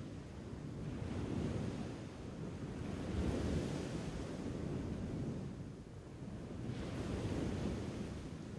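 Sea waves rolling onto a shore and washing back, the hiss swelling and fading in three slow surges.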